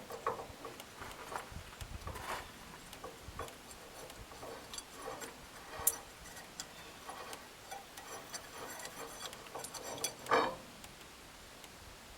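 Scattered light clicks and taps of hydraulic cylinder parts being handled and set down during reassembly, with a sharper tap about six seconds in and a louder knock about ten seconds in.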